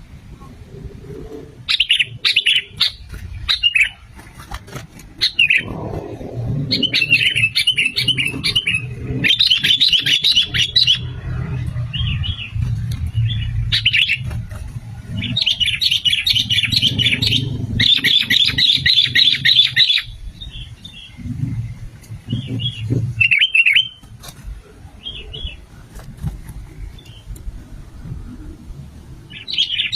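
Sooty-headed bulbuls (kutilang) calling in bouts of rapid chirps, each bout a few seconds long, with scattered single notes after the last long bout. A low rumble runs underneath.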